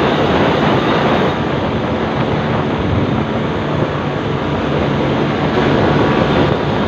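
Vespacar three-wheeled auto-rickshaw's engine running steadily under a loud rushing noise.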